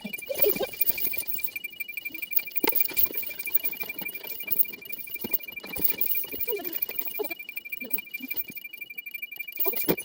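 A dog whimpering in short, wavering squeaks, with a few sharp clicks, over a steady high-pitched pulsing tone.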